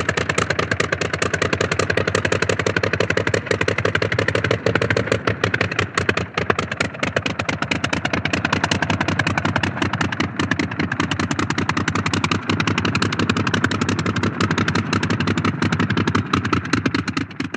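Engine of a Blériot single-propeller monoplane idling, a rapid, steady run of firing pulses. It starts to fall away at the very end.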